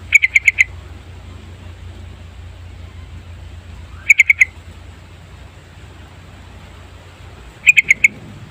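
Yellow-vented bulbul singing three short phrases of four quick notes each, about four seconds apart, over a steady low hum.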